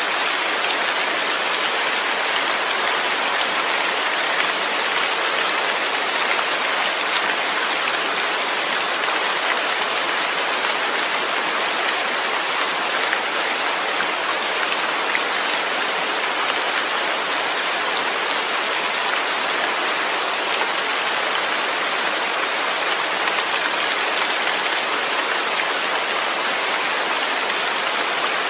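Steady rain falling, an even hiss of many drops without pauses or changes.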